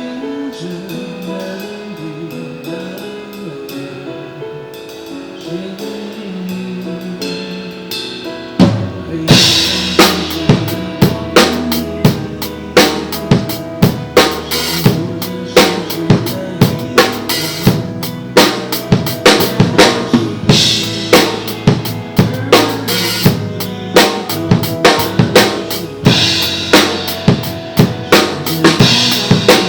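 The melodic intro of a backing track plays, then about eight and a half seconds in a drum kit comes in with a loud hit and keeps a steady beat of bass drum, snare and cymbals over the music.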